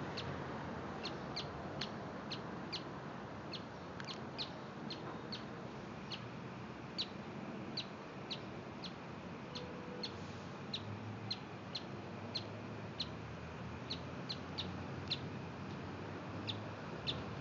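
Small birds chirping: short high chirps, roughly two a second at uneven spacing, over a steady background rush of noise.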